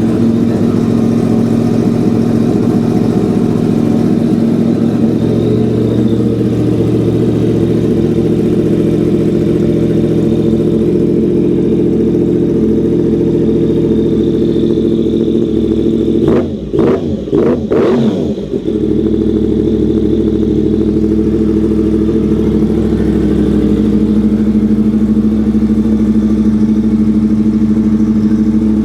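Yamaha MT-10 SP's crossplane inline-four engine idling through a newly fitted Austin Racing aftermarket exhaust, with a few quick blips of the throttle about two-thirds of the way in before settling back to a steady idle.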